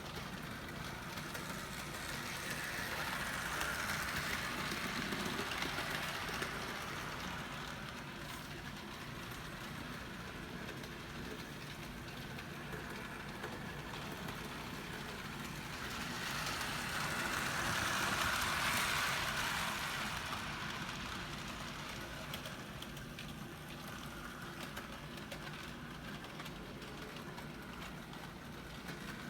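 HO scale Athearn model locomotive and cars running on the track, a steady mechanical running noise that grows louder twice, about four seconds in and again around eighteen seconds.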